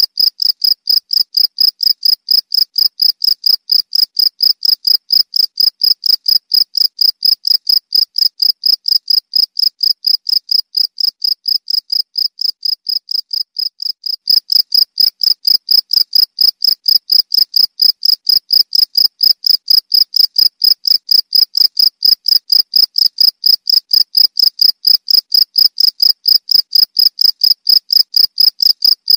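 Cricket chirping in a fast, even rhythm of high-pitched pulses, about three a second. It dips a little quieter just before the halfway point, then comes back louder.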